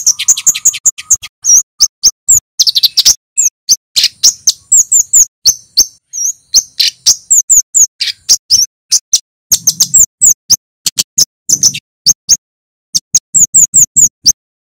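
Male kemade flowerpecker calling a rapid string of sharp, high 'cit' chips, many a second, some notes sliding down in pitch, with a couple of short breaks.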